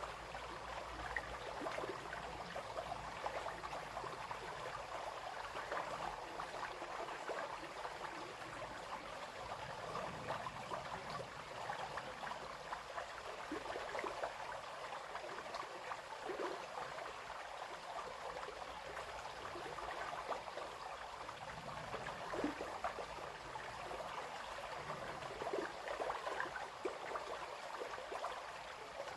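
Small brook babbling and splashing over stones, a steady rush of water with many small trickles and splashes.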